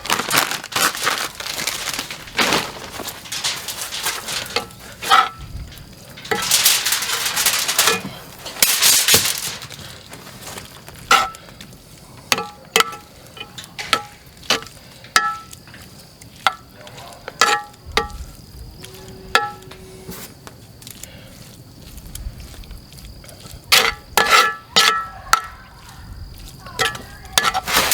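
A metal spoon clinking and scraping against metal cookware while the cheese and brisket filling is spooned and mixed: many short, ringing clinks with pauses between them. There are a few longer rustling scrapes in the first ten seconds and again near the end.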